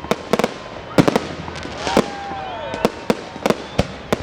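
Fireworks going off: a rapid, irregular string of sharp bangs and cracks, with a brief whistle gliding down about two seconds in.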